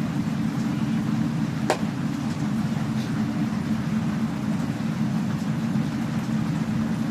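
Forge running with a steady low drone, with one sharp metallic tap about two seconds in.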